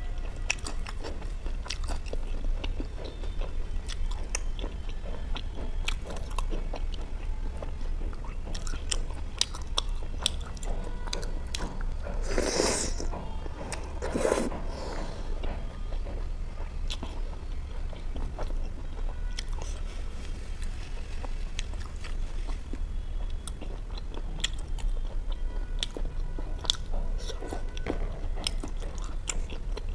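Close-up eating sounds of butter chicken and butter naan taken by hand: chewing with many small wet clicks and smacks, and two louder, longer mouth sounds about halfway through. A steady low hum runs underneath.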